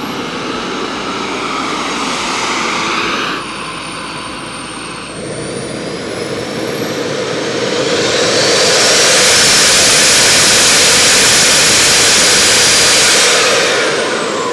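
Twin Xicoy 180 model jet turbines running, a high turbine whine rising in pitch at first. About eight seconds in, a loud rushing jet noise swells, holds for several seconds and falls away near the end.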